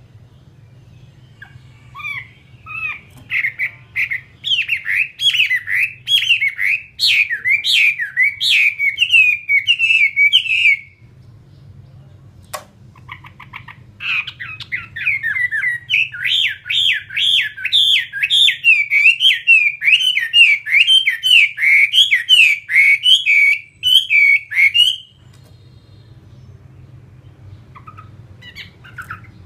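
Chinese hwamei singing in two long bouts of fast, repeated sweeping notes, the second bout starting about fourteen seconds in, over a steady low hum.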